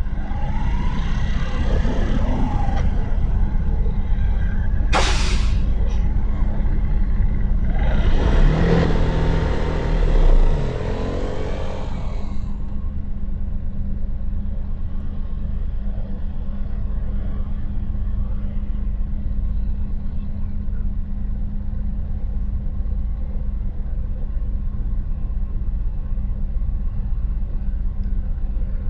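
Motorcycle engine running steadily in city traffic. About five seconds in comes a short, sharp hiss, and from about eight to twelve seconds a louder passing vehicle with falling pitch; after that only the engine's steady drone remains.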